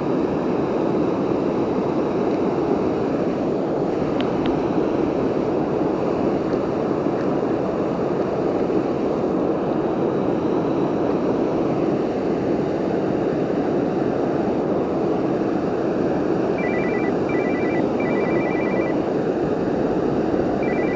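Steady rushing of a waterfall on a river. About three-quarters of the way in, a mobile phone starts ringing: a high trilling ringtone in short repeated bursts, starting again near the end.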